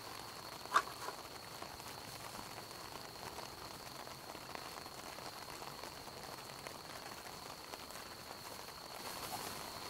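Campfire wood crackling steadily with small ticks, and one sharp pop about a second in.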